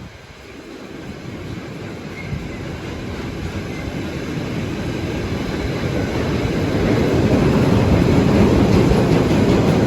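Freight train approaching along the line, its rumble growing steadily louder.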